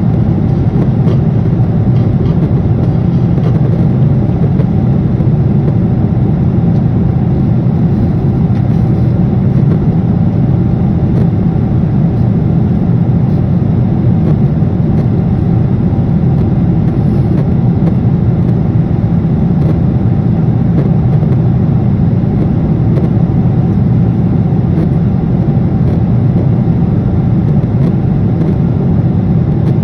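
Jet airliner cabin noise in flight: a loud, steady drone of engines and rushing air, strongest in the low range and unchanging throughout.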